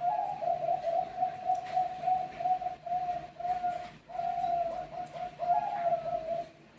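Zebra dove (Bangkok perkutut) cooing: a rapid string of short, clear coos, about three a second, with a brief break about four seconds in.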